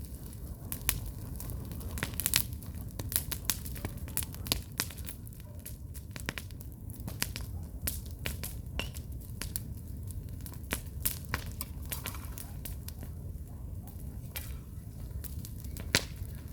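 Wood campfire crackling, with irregular sharp pops of the burning logs over a steady low rumble of the flames.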